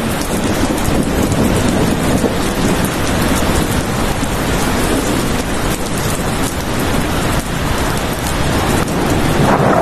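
Steady rainfall: a dense, even hiss of falling rain with a low rumbling undertone, unbroken throughout.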